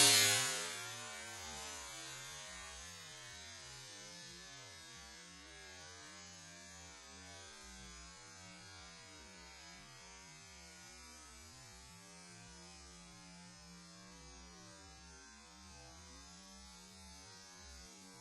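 A firework's hiss dies away within the first second, leaving a faint steady low hum.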